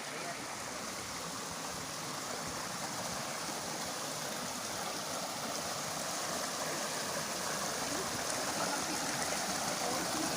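Steady rush of flowing water from the river and waterfall, growing gradually louder.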